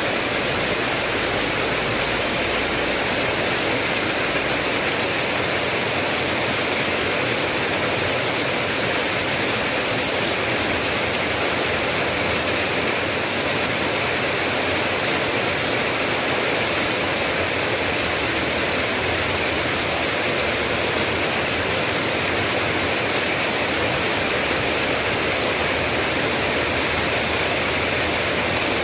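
Steady heavy rain, a dense, even hiss with no separate drops standing out.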